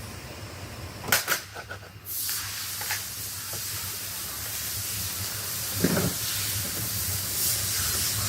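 A few sharp clicks, then from about two seconds in a steady hiss of compressed air from a pneumatic tool used in car body repair.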